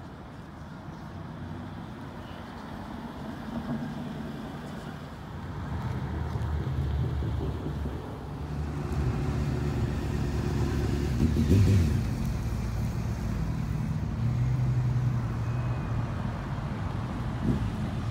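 Car engines accelerating and driving past around a roundabout, among them an Audi R8. The low rumble builds steadily and is loudest about two-thirds of the way through.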